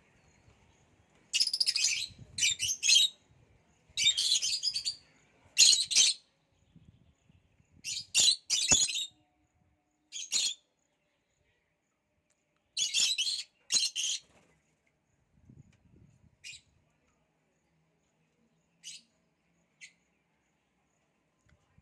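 Pet lovebirds giving harsh, high-pitched chirps in loud bursts, grouped in several clusters over the first fourteen seconds, then only a few faint single chirps.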